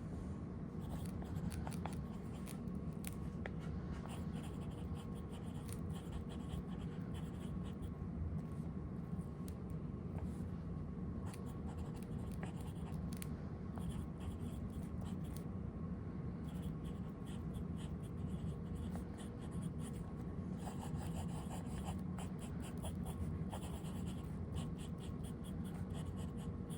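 Broad fountain-pen nib (TWSBI Eco-T) writing on paper: a run of short, light scratching strokes, busiest near the end, over a steady low hum.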